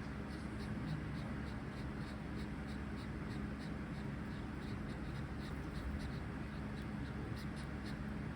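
Zebra finches giving a string of short, high calls, about two to three a second, over a steady low hum.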